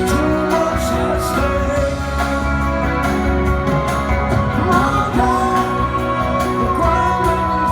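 Live rock band playing, with singing. A long held note comes in about five seconds in.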